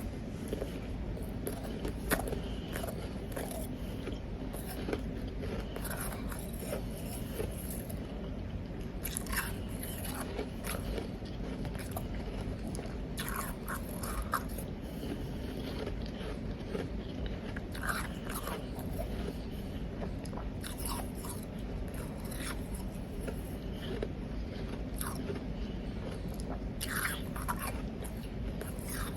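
Close-up crunching of powdery ice being bitten and chewed, in irregular clusters of crackly crunches over a steady low background hum.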